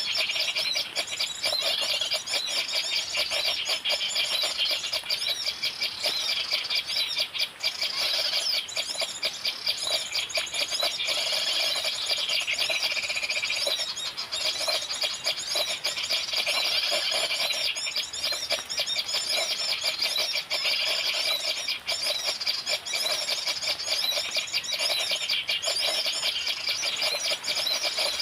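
Birds chirping and trilling rapidly and without pause, high-pitched and dense.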